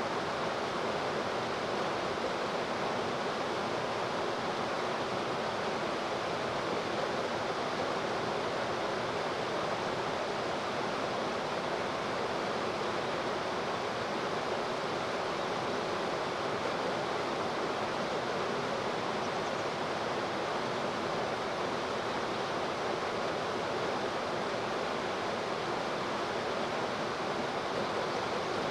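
Steady rushing of river water, an even unbroken noise, with a faint steady low hum underneath.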